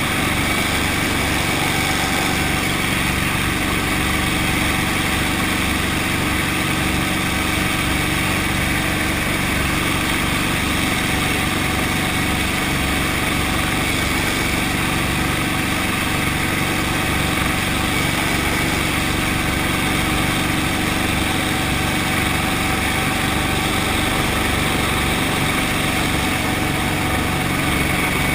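Brantly B2B helicopter's four-cylinder Lycoming piston engine and rotor running steadily, with a fast low pulsing beneath the engine note.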